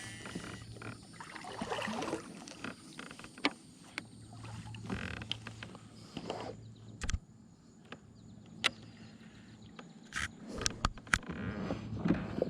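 Kayak on the water: scattered knocks and clicks of gear and paddle against the hull, with soft water sounds and a faint low hum that comes and goes.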